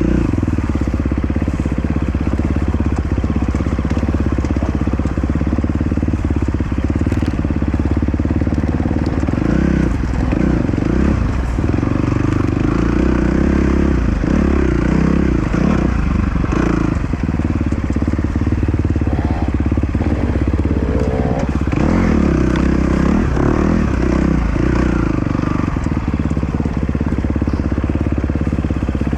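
Dirt bike engine running loud and steady, its note shifting up and down through the middle as the revs change.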